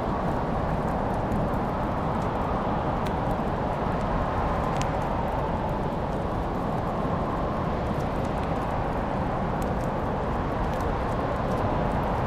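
Wood fire crackling, with scattered sharp pops and ticks over a steady rushing noise.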